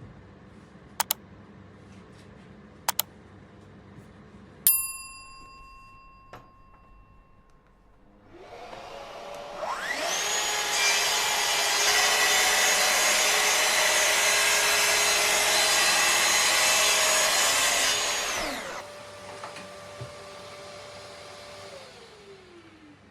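Two sharp clicks, then a single ringing metallic ding. A few seconds later a track saw's motor spins up, cuts through a board panel for about eight seconds, and winds down with a falling whine.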